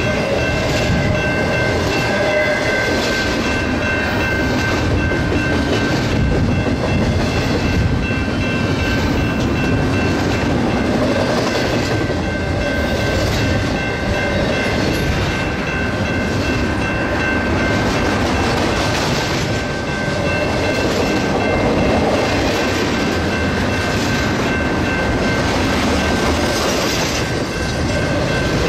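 Double-stack intermodal freight cars rolling past: a steady rumble of steel wheels on rail with a regular clickety-clack as the cars' wheel sets pass, under a steady high-pitched whine.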